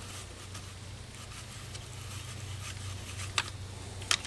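A few faint, scattered metallic clicks and taps from hand tools removing the T30 Torx bolts of an engine's timing chain guide, over a steady low hum.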